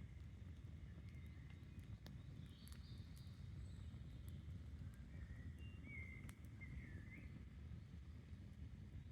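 Faint campfire crackling with a few sharp pops, over a steady low rush of stream water. Birds chirp intermittently, most clearly around the middle of the stretch.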